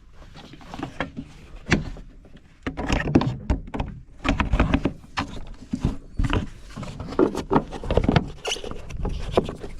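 Irregular knocks and clunks of seed hopper lids being set and latched back onto a planter's row units.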